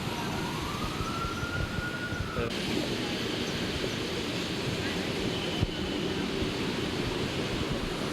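Steady hiss of rain and traffic on a wet city street. Near the start a distant siren rises in pitch and holds for about two seconds, then cuts off suddenly.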